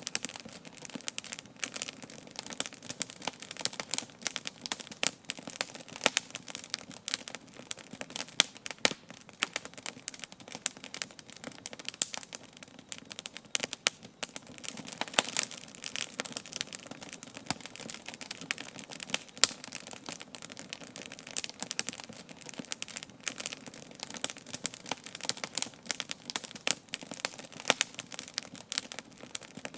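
Wood campfire crackling: irregular sharp pops and snaps, several a second, over a faint steady hiss of burning.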